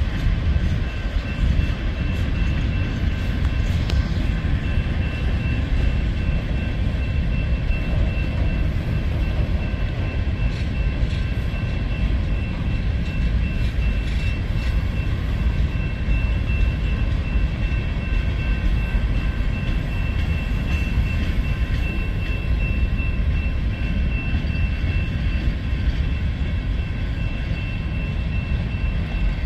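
Empty open hopper cars of a CSX freight train rolling past, a steady heavy rumble of wheels on rail. A faint, steady high-pitched whine sits above it.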